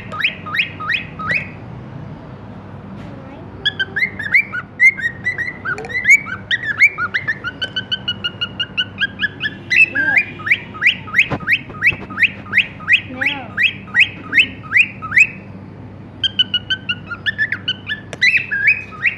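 Pet cockatiel chirping in fast runs of short, rising whistled notes, several a second, with brief pauses between the runs.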